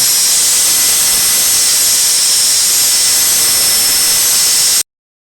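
Power drill spinning a cylinder hone inside a diesel engine's cylinder bore: a loud, steady whine with a hiss, cut off abruptly near the end.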